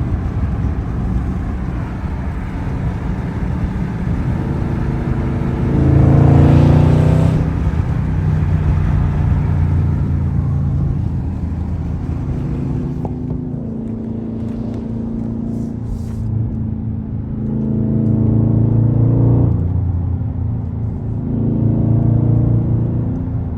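Exhaust of a Dodge Charger Scat Pack's 392 HEMI V8 with the mid-mufflers deleted, running steadily under way and getting louder on three pulls, about six seconds in, around eighteen seconds and again near the end.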